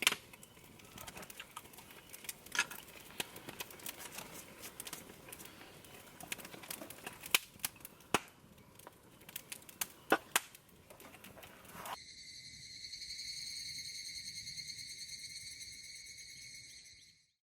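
Campfire or charcoal fire crackling, with irregular sharp pops. It gives way about twelve seconds in to a steady, shrill high-pitched sound lasting about five seconds that cuts off suddenly.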